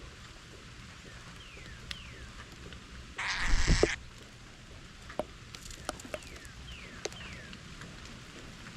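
A songbird giving short whistled notes that slide downward, two early on and a series of three later, over a steady faint hiss. Near the middle a loud rushing burst lasts under a second, with a few small clicks scattered around it.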